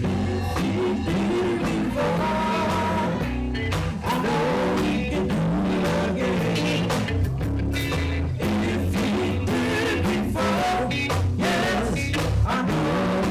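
A live gospel band plays the opening of a song, with bass, drums and other instruments, and some singing in it.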